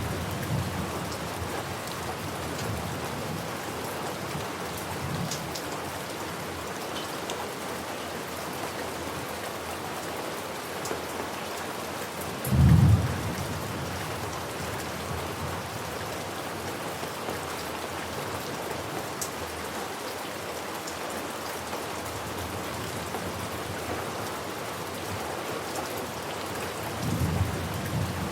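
Steady rain falling, with thunder. A short, loud thunderclap sounds about halfway through, and softer low rumbles come near the start and near the end.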